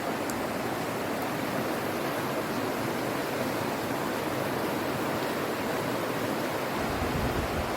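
Steady rushing of falling and flowing water, an even hiss with no break. A deeper rumble joins in near the end.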